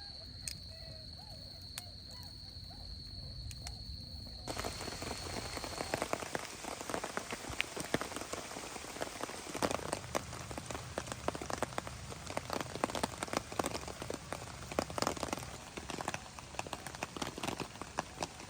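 Rain falling steadily, with many individual drops striking close by. It cuts in abruptly about four seconds in, after a quieter stretch holding a steady high whine and faint animal calls.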